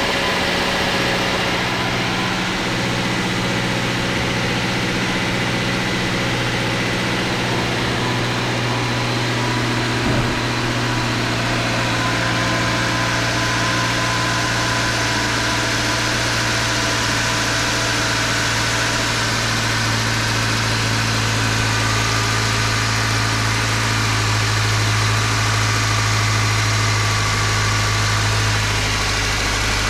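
Subaru Impreza's FB16 1.6-litre flat-four engine idling steadily, with one short knock about a third of the way in. The owner is asking what fault the engine has.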